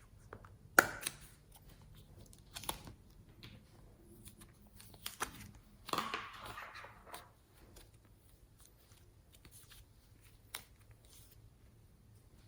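Small items and containers being handled for slime mixing: a sharp click about a second in, a few lighter clicks and taps, and a brief rustle around six seconds.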